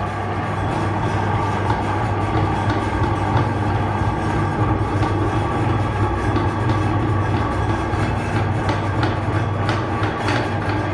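Electric meat grinder running steadily with a low hum, with sharp clicks in the last couple of seconds.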